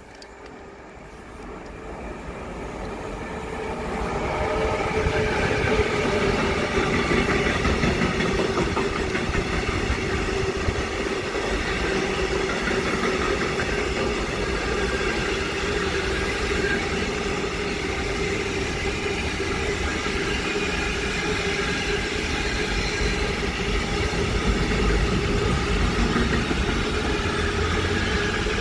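Container freight train rolling past, its wagons running steadily over the rails. The sound builds over the first four seconds as the train draws near, then holds at a steady rumble with a humming tone over it.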